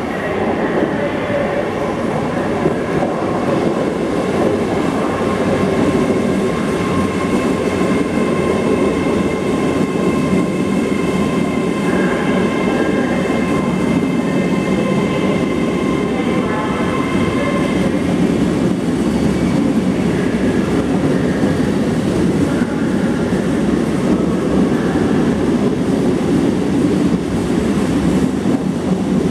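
LNER Azuma high-speed train arriving and rolling slowly past along the platform: a steady rumble of wheels and running gear. Several steady high tones ride over it through the first half or so and fade out about two-thirds of the way through.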